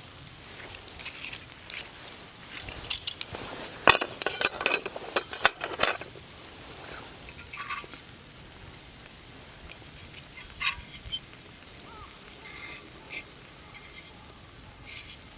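Metal cookware and utensils clinking and scraping, with a rapid cluster of loud clinks in the middle and a couple of short ringing metal taps afterwards.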